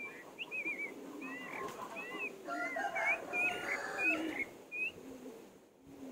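Birds calling: a string of short chirps that rise and fall in pitch, over a low cooing.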